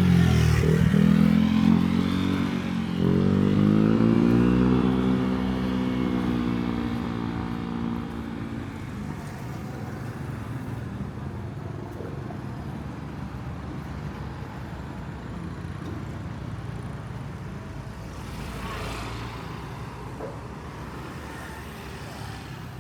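Vehicle engine revving up hard twice, its pitch climbing and then gliding down over several seconds, before settling into a steady, quieter running drone.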